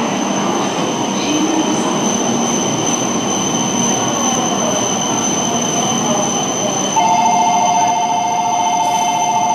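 E7 series Shinkansen standing at the platform: a steady hum and hiss from the train's equipment with thin, steady high whines over it. About seven seconds in, a loud electronic two-tone signal with a fast pulse starts and keeps sounding, the platform's departure signal.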